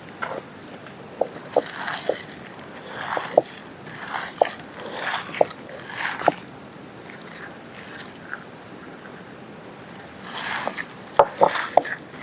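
Irregular short knocks and clicks, about a dozen, with soft rustling between them and a busier run of knocks near the end.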